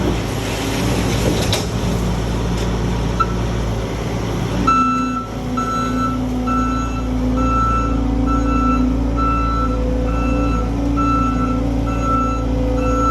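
John Deere skid steer's diesel engine running steadily. About a third of the way in, its backup alarm starts beeping, about two beeps a second, as the machine reverses.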